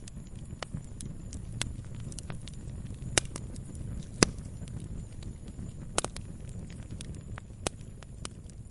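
Log fire burning: a low steady rumble of flames with irregular sharp pops and snaps of the wood, the loudest about three, four and six seconds in.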